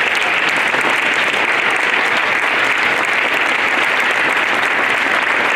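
Audience of schoolchildren applauding steadily.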